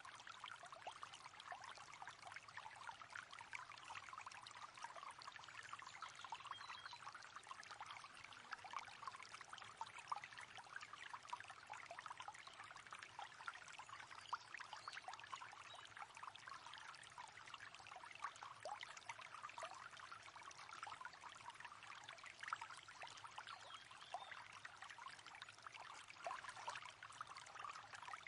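Shallow river water running and babbling steadily, a constant dense patter of small splashes and trickles.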